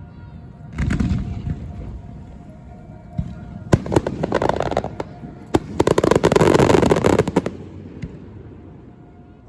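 Aerial fireworks going off: a low boom about a second in, then two bursts of dense crackling pops, the longer and louder one about six seconds in.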